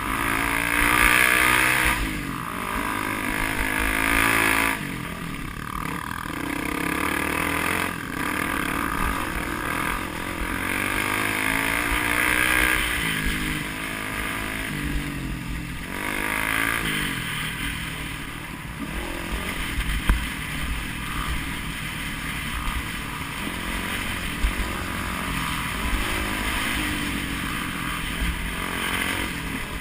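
Enduro motorcycle engine revving up and down repeatedly, its pitch rising and falling over and over as it is ridden.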